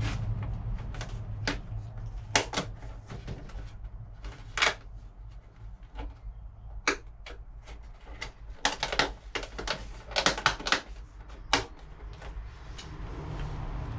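Plastic lid being fitted and snapped onto a housing: an irregular string of sharp clicks and knocks, with a quick cluster of clicks about two-thirds of the way through.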